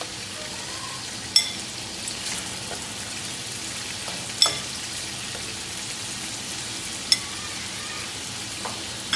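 Chicken pieces frying in hot oil in a metal karahi, a steady sizzle. A metal spatula strikes the pan three times with short ringing clinks while it lifts the chillies out.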